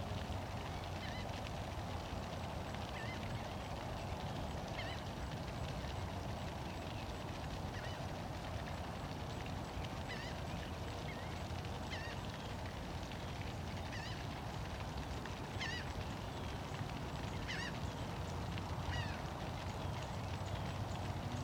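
A bird calling over and over in short, high chirps every second or two, over a steady low rumble.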